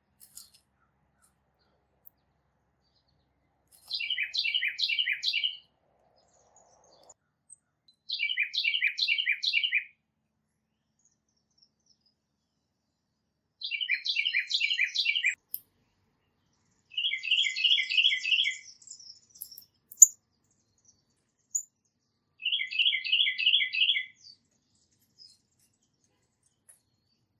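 A songbird singing: five short phrases of quickly repeated whistled notes, a few seconds apart. The last two phrases have more even, evenly spaced notes.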